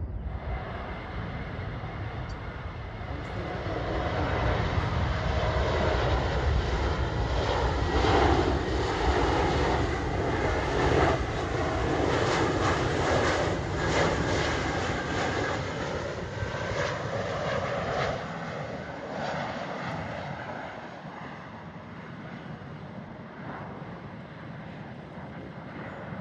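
Jet airliner flying past, its engine noise swelling to a peak about a third of the way in and then slowly fading away.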